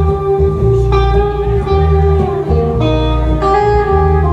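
Instrumental guitar break in a slow country ballad: a guitar plays the melody in long, sustained notes over a bass guitar line.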